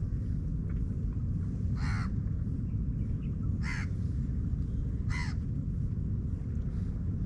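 A bird, likely a crow, gives three short calls about a second and a half apart over a steady low rumble.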